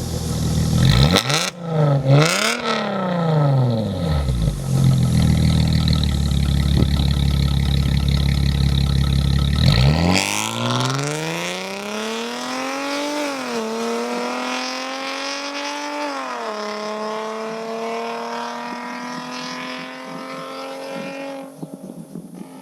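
Mercedes car engine and exhaust revving a few times, holding high revs, then accelerating away with a steadily rising note. The note drops sharply twice for gear upshifts, about two-thirds and three-quarters of the way through.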